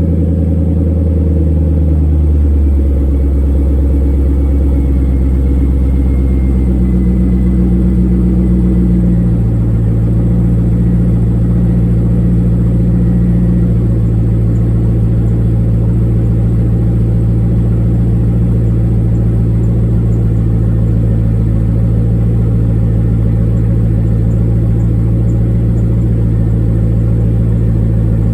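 C5 Corvette 5.7-litre V8 idling steadily just after a cold start, heard through a Borla S-Type cat-back exhaust with stock headers and mid pipe. The low exhaust tone shifts about nine seconds in, then holds steady.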